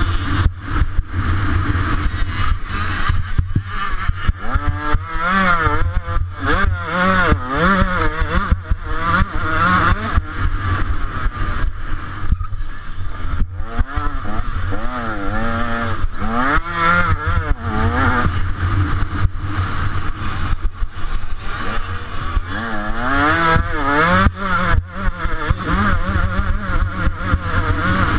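125cc two-stroke motocross bike engine revving hard and dropping back again and again as the rider accelerates, shifts and rolls off around the track. A steady rush of wind noise sits under it on the helmet or bike camera.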